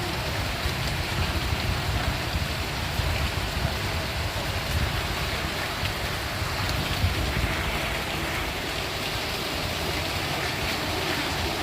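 Steady rain falling, a continuous even hiss with a low rumble beneath it and faint scattered drop ticks.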